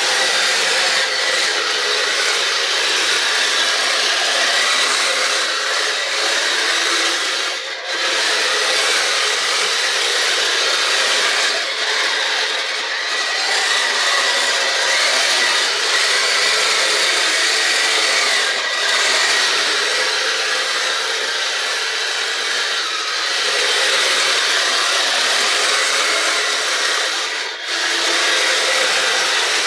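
Kyosho Blizzard radio-controlled snow vehicle running on its crawler tracks: a steady whirring, rattling drive with a faint whine, briefly easing off four times.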